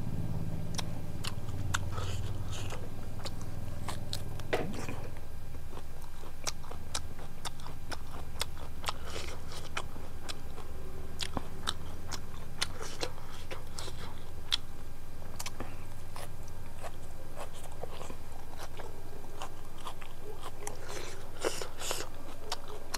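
Close-miked eating sounds through a lapel microphone: a person chewing and biting chicken biryani, with many quick wet mouth clicks and crunches. A low steady hum runs underneath.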